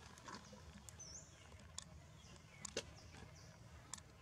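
Faint outdoor background with a single short bird chirp about a second in and a few soft, scattered clicks.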